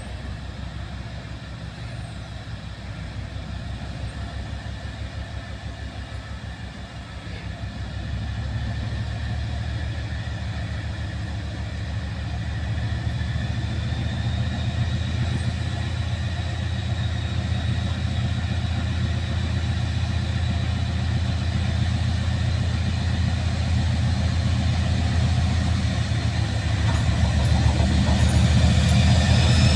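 British Rail Class 56 diesel locomotive's Ruston-Paxman 16-cylinder engine throbbing under power as it pulls away, growing steadily louder. A high whine builds in from about halfway through.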